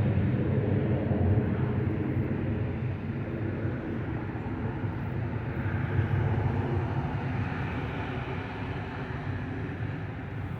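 Jet aircraft engine noise, a steady low rumble that slowly fades as the plane moves away.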